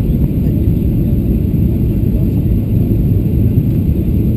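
Steady, loud rumble of a Boeing 737-700 heard from inside the passenger cabin: its CFM56-7B jet engines and the airflow over the fuselage.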